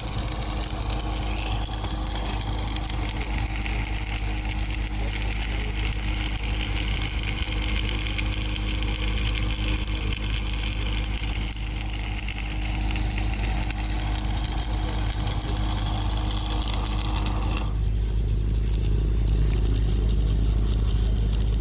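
Heavy diesel engine running steadily with a low hum. About three-quarters of the way through, the high hiss drops away abruptly while the low drone carries on.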